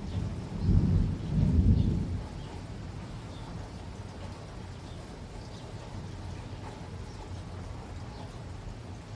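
Rain falling, with a low rumble of thunder in two swells during the first two seconds, then steady rain with faint scattered drops.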